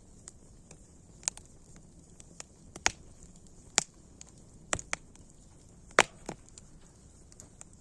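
Wood fire crackling: irregular sharp pops, roughly one a second, the loudest about six seconds in, over a faint steady hiss.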